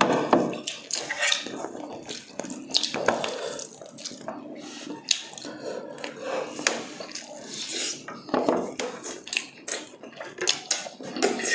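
Close-miked eating: wet chewing and lip-smacking on fried chicken and spaghetti, with a fork and spoon clinking and scraping on plates in irregular short clicks.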